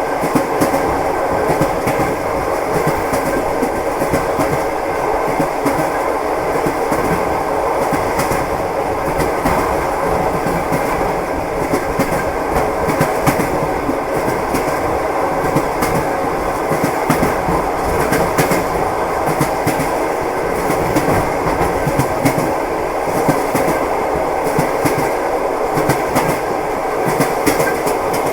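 Train wheels rolling over rail joints: a steady clickety-clack of knocks over a continuous running rumble.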